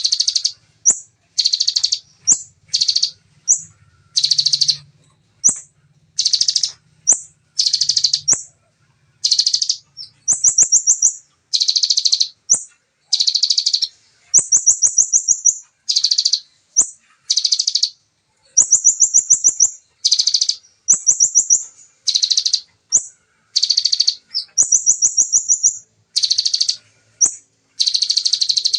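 Olive-backed sunbird (konin) singing a fast, high-pitched song in short repeated bursts about once a second, some drawn out into longer rapid trills: the rapid-fire 'shooting' phrases copied from the bar-winged prinia (ciblek).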